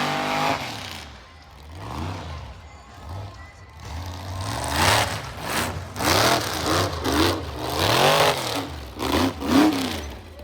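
Monster truck engine being revved in quick repeated throttle blips, the pitch rising and falling over and over; the first few seconds are quieter before the blipping starts.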